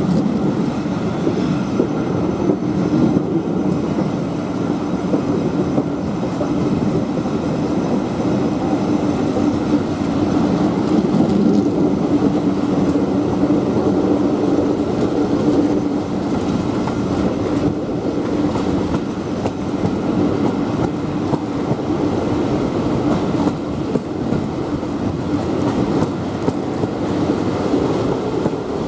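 Steam-hauled passenger train running along the line, heard from an open window of one of its coaches: a steady, loud rumble of wheels on the rails and carriage noise.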